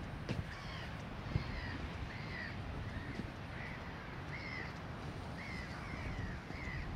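A bird calling repeatedly in short, rising-and-falling calls, roughly one or two a second, over a steady low rumble.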